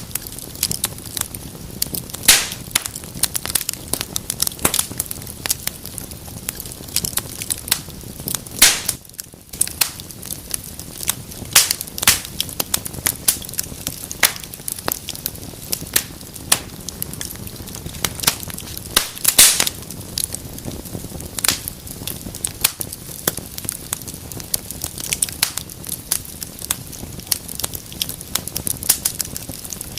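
Wood fire in a fireplace crackling and popping, with irregular sharp snaps over a steady hiss; a few louder pops stand out, around 2, 8½ and 19 seconds in.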